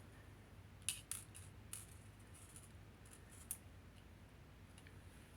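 Near silence broken by a few faint, crisp ticks and snips: two about a second in, one near two seconds, and one near three and a half seconds.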